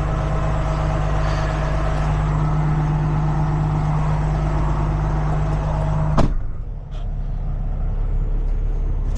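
Tow truck's engine running steadily; about six seconds in a sharp click, after which the steady hum drops away to a quieter low rumble.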